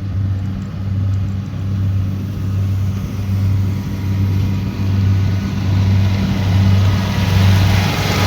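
Kubota DC70 Pro combine harvester's diesel engine running steadily, a low drone that pulses evenly, with the machine's mechanical noise building and growing louder near the end.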